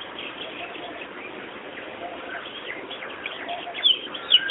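Pied bushchat calls: a string of short, high chirps over a steady hiss, growing louder and closer together near the end.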